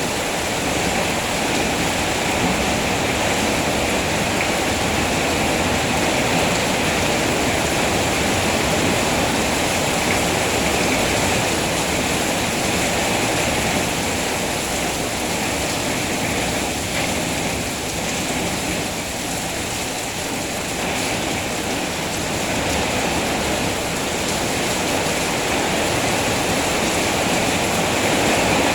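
Heavy rain falling steadily: a dense, even hiss of water.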